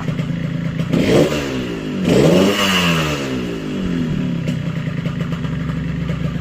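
Yamaha RX-King two-stroke single-cylinder motorcycle engine idling, blipped about a second in and revved again a second later, each time falling back to a steady idle. It is freshly serviced and set up for the 'ngorok' snoring idle tone.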